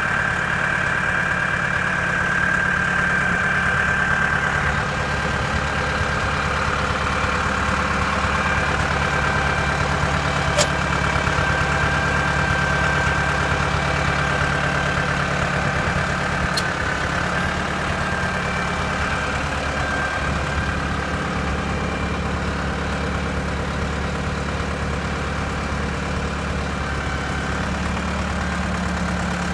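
Deutz four-cylinder air-cooled diesel engine of a 1995 AGCO Allis 6690 tractor running steadily, with a steady high whine over it. Two sharp clicks come about ten and seventeen seconds in.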